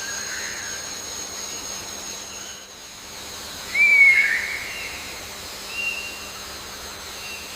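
A bird's short whistled call about four seconds in, a quick upward slur then held, with a few fainter short whistled notes before and after, over a steady high hiss of background.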